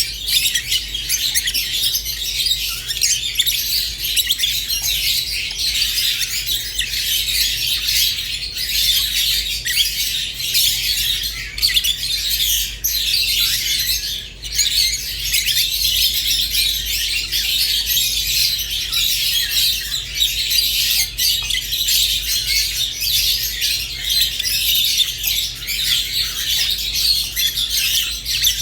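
A flock of small pet parrots chirping and squawking in a dense, continuous chatter.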